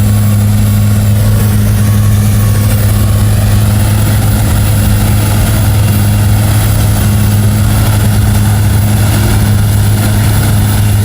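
Mega truck engine running at steady revs: a loud, constant drone with no rise or fall.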